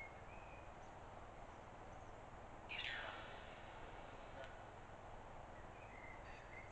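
Faint chirps of a small bird over low room hiss, with one louder falling call about three seconds in.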